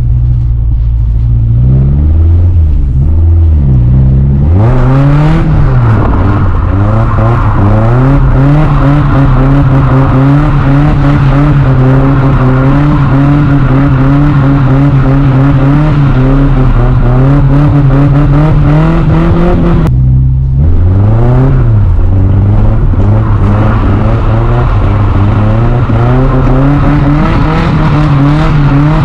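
Nissan 240SX's single-cam four-cylinder engine revving hard under sustained throttle during a drift. It rises and falls for the first few seconds, then holds high revs. About two-thirds of the way through it briefly dips as the throttle is lifted, then climbs back up.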